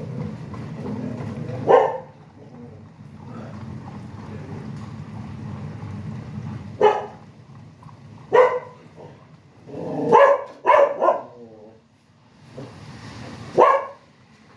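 A dog barking about six times at irregular intervals, short sharp barks over a steady low rumble of highway traffic.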